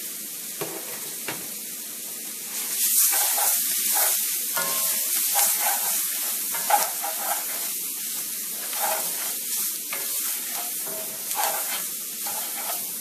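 Chopped onion and bell pepper sizzling in a roux in a cast-iron skillet as they cook down to release their water. A wooden spoon stirs and scrapes the pan, and the sizzle grows louder about two and a half seconds in.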